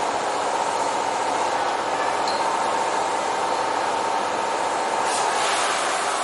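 Kintetsu electric commuter train running along the track: a steady rumble of wheels on rail with a steady whine that stops about five seconds in.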